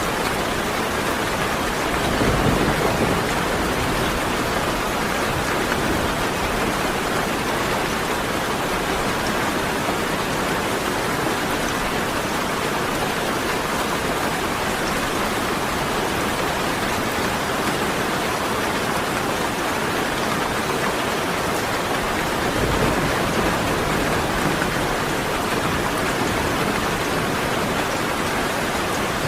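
Steady, even rain hissing throughout, with two low rumbles of distant thunder: one about two seconds in and another about twenty seconds later.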